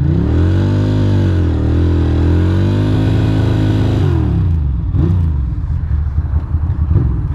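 Ducati Monster's L-twin engine revved hard during a burnout, its pitch climbing and falling twice over about four seconds, then dropping back to a lumpy, uneven idle.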